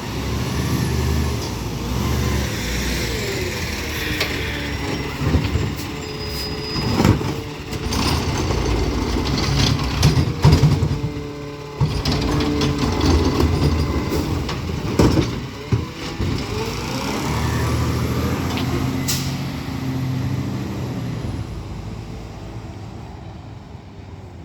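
Peterbilt 520 McNeilus ZR garbage truck working: the diesel engine runs and revs up and down, with sharp clanks and knocks and a short air hiss. The engine fades over the last few seconds as the truck moves off.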